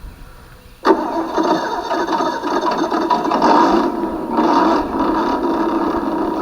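An Axial SCX10 RC crawler's sound kit plays a simulated engine through a small speaker. It starts suddenly about a second in, then runs rough and steady, swelling louder twice as the throttle is worked.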